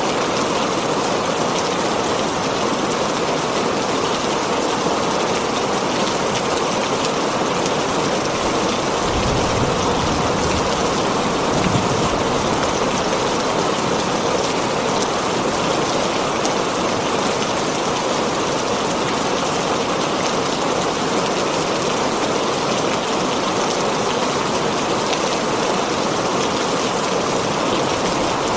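Heavy rain drumming steadily on a tin roof, with a brief low rumble about a third of the way in.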